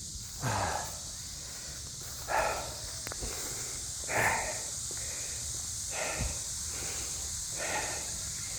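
A man's hard exertion breaths, one sharp exhale roughly every two seconds, paced with his exercise reps. Behind them a steady, high cicada chorus runs on.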